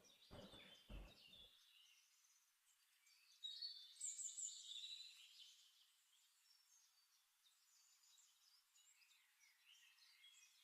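Faint birds chirping and twittering, many short overlapping calls, loudest about four seconds in. A few faint low thuds in the first second and a half.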